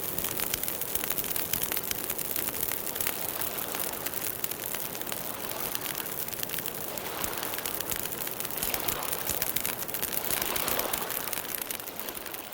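Campfire crackling and popping steadily over a soft hiss of burning wood, beginning to fade near the end.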